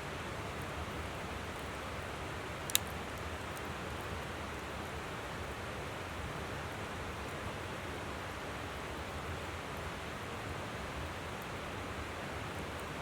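Steady rush of a flowing river under a wood campfire crackling lightly, with faint scattered ticks. One sharp, loud pop from the fire about three seconds in.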